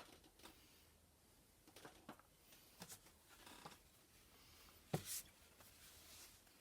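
Faint scattered rubbing and handling sounds, with one sharper knock about five seconds in.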